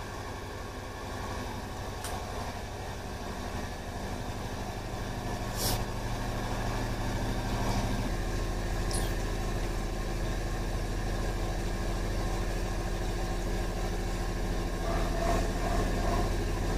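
A steady low motor hum, like an engine running, growing slowly louder, with a brief click about six seconds in.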